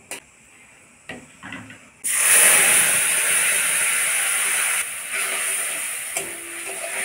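Wet spice paste dropped into hot oil in a kadai: a sudden loud sizzle about two seconds in that keeps hissing, easing somewhat near the end. A few light clicks and knocks before it.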